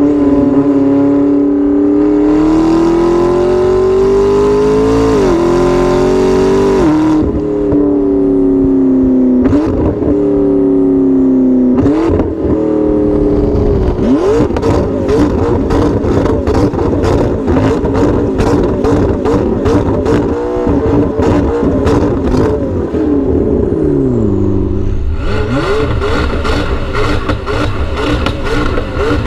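McLaren MP4-12C's twin-turbo V8 with an Fi aftermarket exhaust, revving with its pitch climbing and dropping several times. After about fourteen seconds it breaks into a long run of rapid exhaust pops and crackles, the sign of fuel igniting in the exhaust and shooting flames. The revs fall off near the end and it settles to a low run, still crackling.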